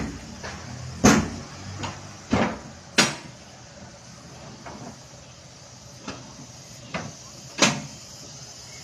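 A string of wooden knocks and bangs, about seven of them at irregular intervals, from a wooden shipping crate being opened by hand.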